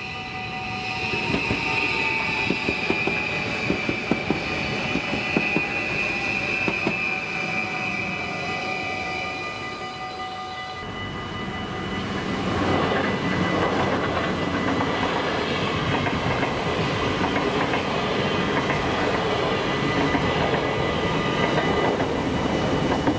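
Level-crossing warning bell ringing steadily while an NS Sprinter passes with rhythmic wheel clatter over the rail joints. About eleven seconds in, this changes to another crossing's bell, then the rising rush of a yellow NS intercity train approaching and running past.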